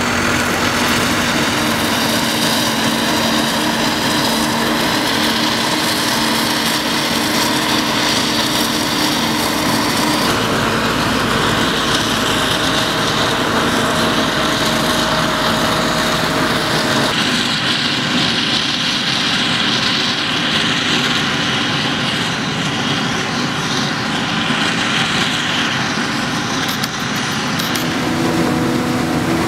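Harvest machinery at maize chopping: a forage harvester and tractor engines running steadily under load. The sound shifts abruptly about 10 and 17 seconds in.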